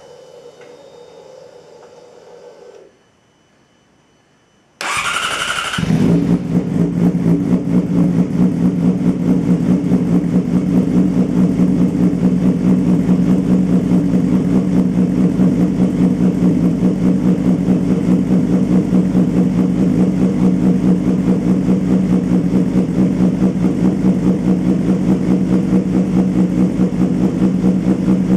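Yamaha YZF-R6 inline-four sportbike engine, fitted with an aftermarket side-mounted exhaust: after a faint hum, the starter cranks briefly about five seconds in, the engine catches and settles into a loud, steady idle.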